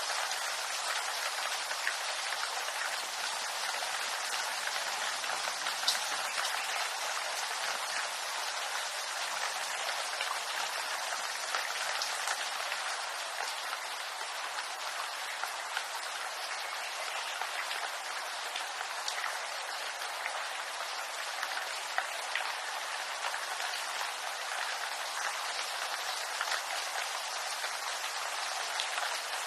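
Steady rain falling on bamboo leaves, a dense even patter with a few sharper single drops standing out.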